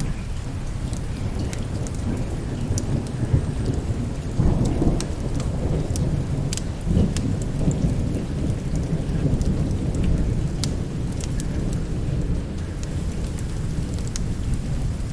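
Steady rain with thunder rumbling, swelling twice, about four and a half and seven seconds in, and scattered sharp pops of a crackling wood fire.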